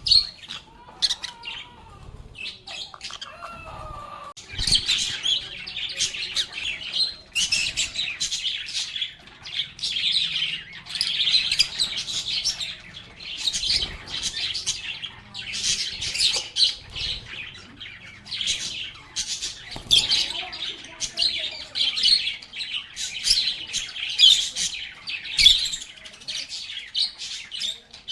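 A flock of pet lovebirds chirping and chattering. Sparse calls at first, then from about four seconds in a dense, continuous stream of high-pitched chirps.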